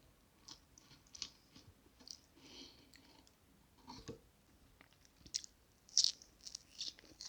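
Close-miked chewing of soft chocolate cake: irregular wet mouth smacks and clicks, the loudest about six seconds in.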